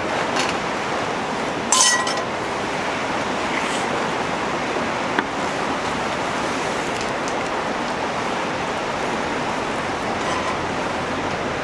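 A sharp metal clink of cookware, ringing briefly, about two seconds in, then a few fainter ticks and taps. Under them runs a steady rushing hiss.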